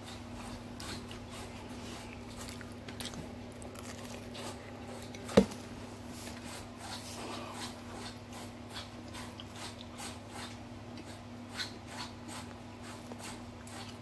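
A person chewing pizza close to the microphone: many small, irregular mouth clicks, with one sharp knock about five seconds in. A steady low hum sits underneath.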